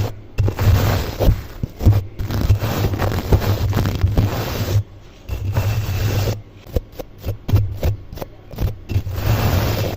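Close-miked ASMR scraping and brushing strokes rubbed against the microphone, irregular and scratchy with a low rumble beneath, broken by brief silent gaps that come in quick succession later on.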